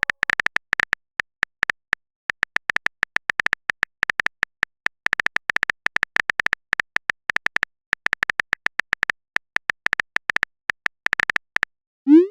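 Phone-keyboard typing sound effect: rapid, irregular short ticks, several a second, that stop near the end and are followed by a quick rising swoosh.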